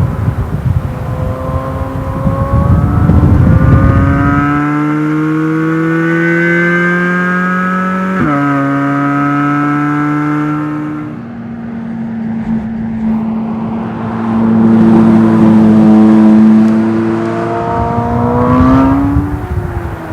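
Chevrolet Corvette Z06's 5.5-litre LT6 flat-plane-crank V8 accelerating hard, its pitch climbing through a gear for several seconds, then dropping sharply at an upshift about eight seconds in. It then eases off, holds a steady note, and climbs once more near the end before falling away.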